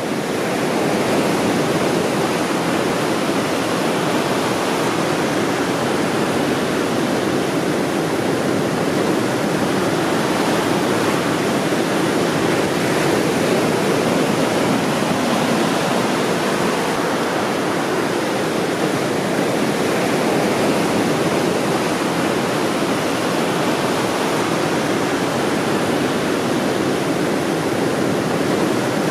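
Ocean waves: a continuous wash of surf with only gentle swells in level.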